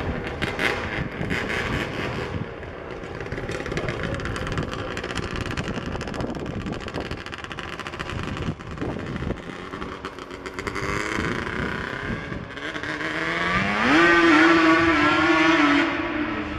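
Motorcycle engine in a go-kart running, with sharp pops in the first couple of seconds. About 13 seconds in it revs up steeply and holds high revs, the loudest part, before easing off near the end.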